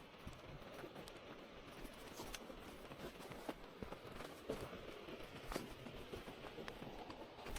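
Faint footsteps and rustling, with scattered irregular sharp clicks.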